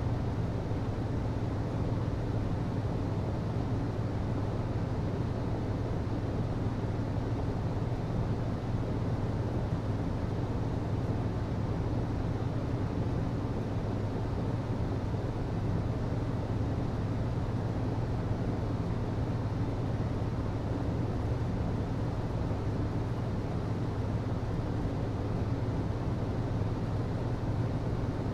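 HVAC system running steadily: a constant low hum under an even rush of air.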